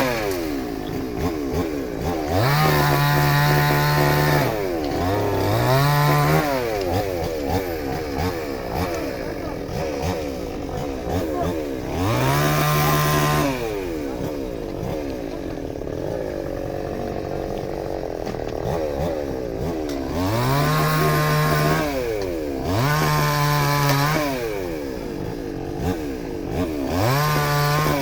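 A small engine revving up in repeated throttle bursts, about six times: each burst climbs quickly in pitch, holds a second or so, then falls back to a lower running note.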